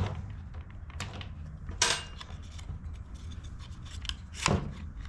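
Hand tools and small metal parts being handled on a workbench: light clicks and scrapes, with two louder sharp clacks, one about two seconds in and one near the end.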